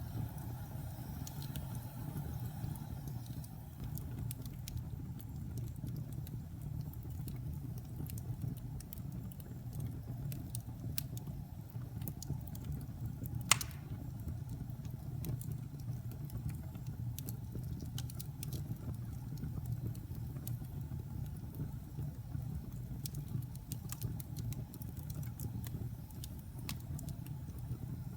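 Wood fire burning in a fireplace: a steady low rumble with scattered small crackles, and one loud pop about halfway through.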